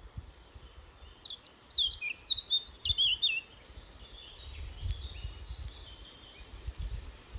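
A small songbird singing one quick twittering phrase of high notes that fall in pitch, about a second in and lasting some two seconds, followed by faint scattered chirps.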